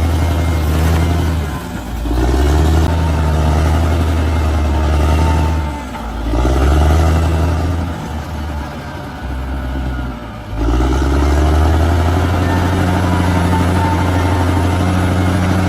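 Large bulldozer's diesel engine running hard, its revs sagging and picking up again a few times, with a longer lower, quieter stretch just past the middle before it settles back to a steady high speed.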